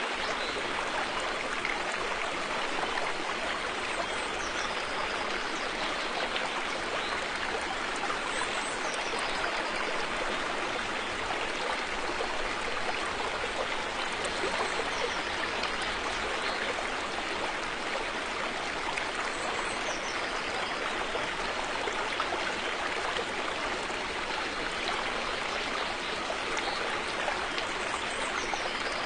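River flowing: a steady, even rush of running water.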